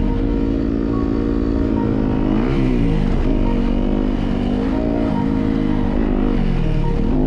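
2017 Yamaha YZ250FX's four-stroke single-cylinder engine under riding load, revving up and down several times as the throttle is worked.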